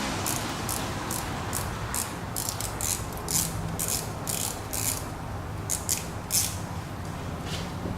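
Ratchet wrench clicking in a run of short, irregularly spaced strokes, over a steady low hum.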